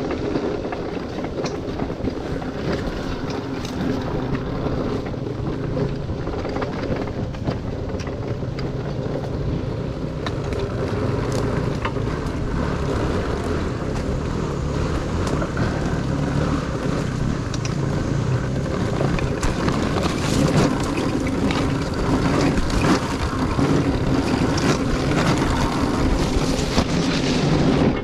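Dirt bike engine running while being ridden along a trail, its note shifting with the throttle, with wind on the microphone. Short knocks and rattles come through, more of them in the second half.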